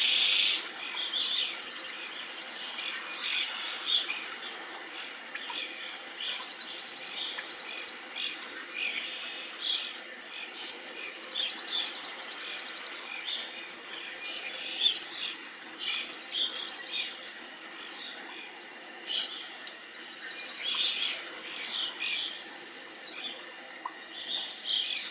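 Small songbirds chirping and calling, many short high calls overlapping throughout, with a louder cluster of calls at the very start.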